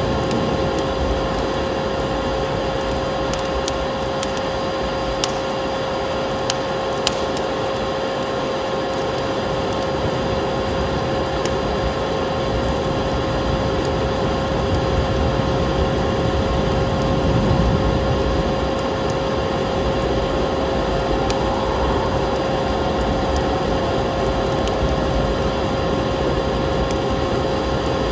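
Wood fire crackling, with scattered sharp pops, over a steady rushing noise and a steady hum.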